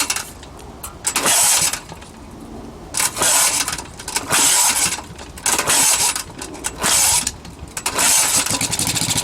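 1948 Briggs and Stratton WMB single-cylinder engine on a cold start, firing in short bursts with quieter gaps as it catches and falters, then running steadily near the end. It is running on stale, varnished gasoline.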